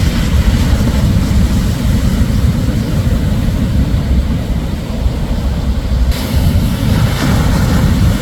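Shorebreak surf with a heavy, steady low rumble of waves; a brighter hiss of rushing water comes in about six seconds in.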